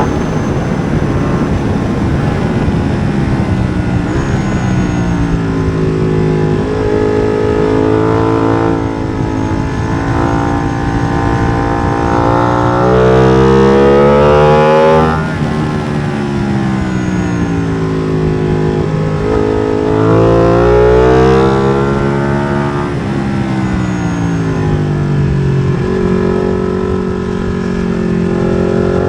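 Ducati Streetfighter V2's 955 cc Superquadro V-twin, running through an MIVV exhaust with the dB killer removed, being ridden hard on track. The engine note climbs steeply as it accelerates and drops away as it slows, several times over, with a sharp rise to a peak about 15 seconds in.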